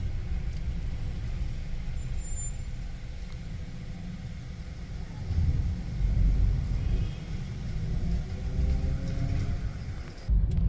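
Low rumble of road traffic, with a faint engine hum from a vehicle in the second half.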